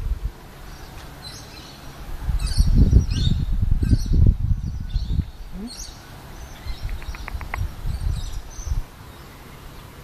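Short high bird chirps here and there, with a quick run of ticks a little after the middle. Louder bursts of low rumbling against the microphone come in the first half and again near the end.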